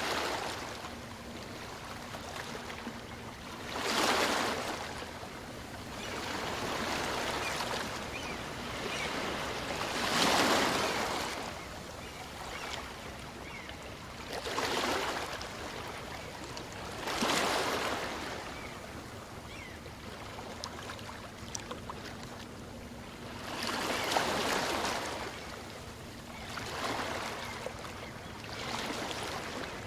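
Small waves on a calm sea washing in and drawing back, a rush of surf swelling and fading about every three to seven seconds, with a soft hiss between them.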